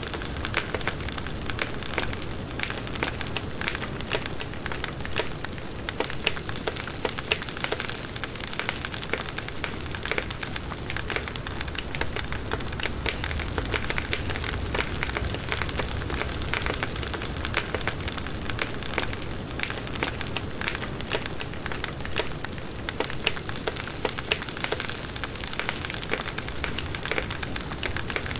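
Firewood burning in a campfire: a continuous crackle of many small, irregular pops and snaps over a steady hiss and low rumble.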